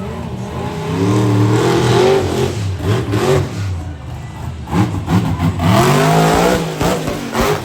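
Monster truck engine revving hard in two swells, pitch climbing and dropping each time, with a few sharp bangs in between.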